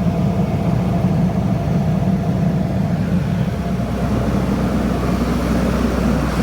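Cummins diesel engine of a portable generator set running steadily. Its tone shifts about halfway through.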